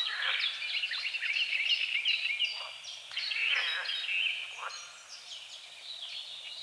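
Dawn chorus of many birds chirping and whistling over one another, mixed with frogs croaking. The calling thins out for a moment past the middle, then builds again.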